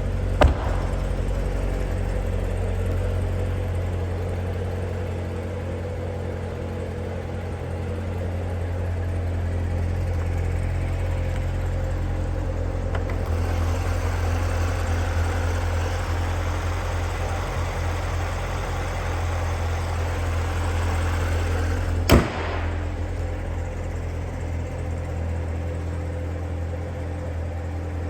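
2016 Chevrolet Corvette Z06's supercharged 6.2-litre V8 idling steadily after a cold start. A sharp knock comes just after the start and another about 22 seconds in.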